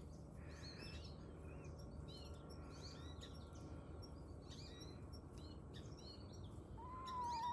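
Faint chirping of small birds, then near the end a hen starts a long, steady, screaming call.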